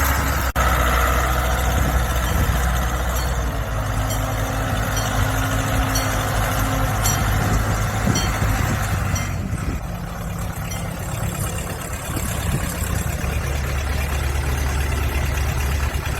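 Backhoe's diesel engine running steadily with a low drone. It eases off briefly about ten seconds in, then picks back up.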